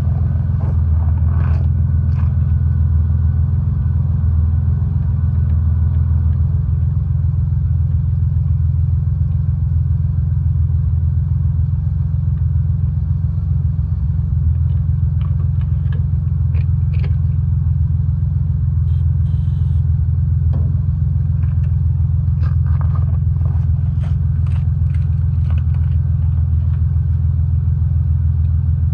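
An engine running steadily at idle, a loud even low rumble, with a few light clicks over it.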